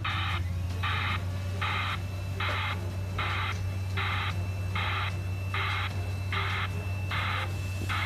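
Broadband 'white-noise' reversing alarm of heavy machinery, pulsing as a hiss about once every 0.8 s, over a steady low engine hum.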